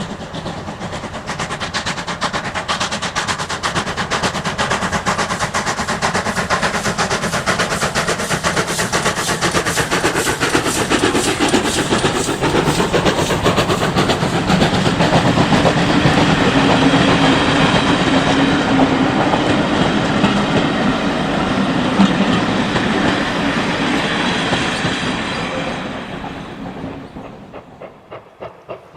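A steam-hauled train passing, with rapid exhaust beats and wheels clattering on the rails. It grows louder to a peak about two-thirds of the way in, then fades quickly near the end.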